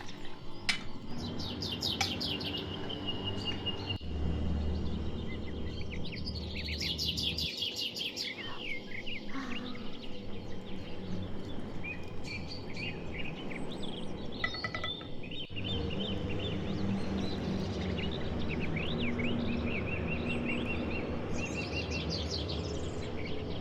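Birds chirping and calling: many short high chirps and several quick trills, over a low steady hum.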